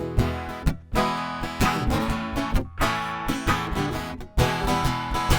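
Instrumental opening of a folk song: acoustic guitar strummed in chords, starting abruptly, with a few brief stops between phrases.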